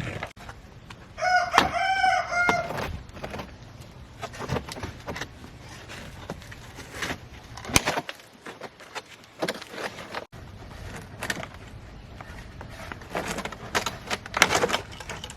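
A rooster crowing once, about a second in, one wavering call lasting under two seconds. Scattered sharp clicks and knocks follow.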